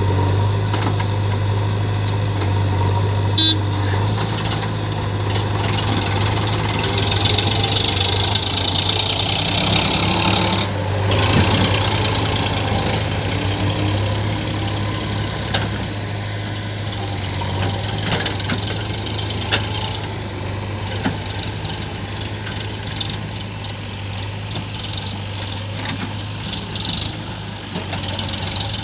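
Heavy diesel machinery engine running steadily, swelling louder for a few seconds around the middle, with one sharp click a few seconds in.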